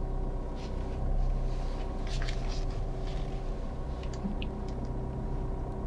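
Ford EcoSport reversing slowly with its engine running low, while the rear parking sensor sounds one continuous warning tone, the sign of an obstacle close behind the car.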